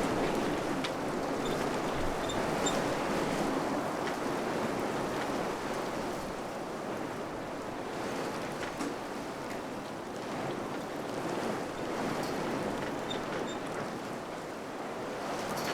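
Wind blowing in gusts: a steady rushing noise that swells and eases, strongest near the start and easing a little around the middle.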